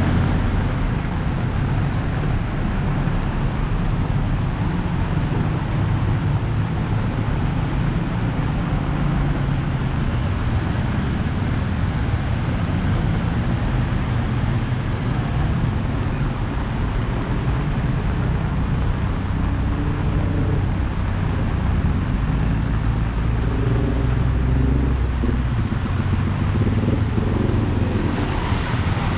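Steady street noise of road traffic, with a constant low rumble and an even hiss, heard while walking in rain.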